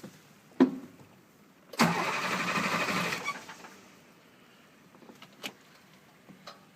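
A sharp click, then the starter of a 2007 International 4300's DT466 diesel cranks for about a second and a half and stops without the engine running, followed by a few light clicks. This is a cold-weather no-start, later traced to a faulty injector harness and leaking high-pressure oil rail seals.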